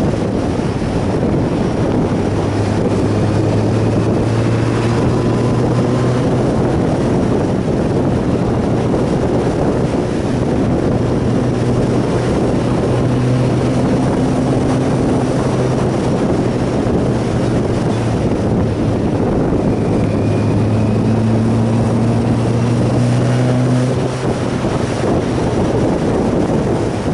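Motorcycle riding at a steady speed: heavy wind rush over the microphone with a steady engine drone underneath, its pitch shifting slightly a few times.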